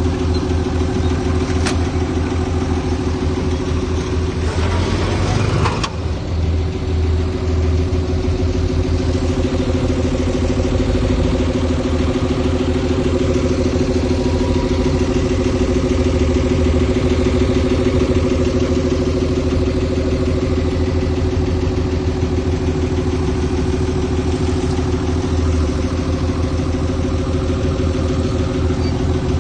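Heavy diesel engine of an earthmoving machine (dump truck or bulldozer) running steadily at a constant speed, with a low rapid throb. About five seconds in, a brief rush of noise rises over it and ends abruptly.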